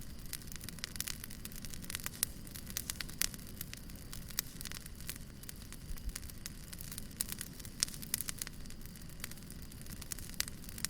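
Wood fire crackling: a steady low rumble of burning with many sharp, irregular pops and snaps.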